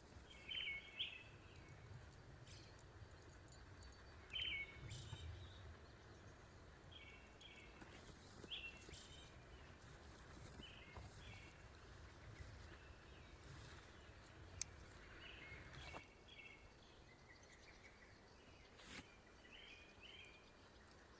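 Faint songbird calls: short chirping phrases repeated every two to three seconds. Under them is a low rumble that eases off about sixteen seconds in.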